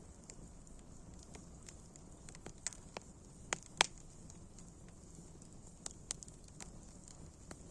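Wood fire crackling: irregular sharp pops over a low steady rumble, the loudest pop about halfway through.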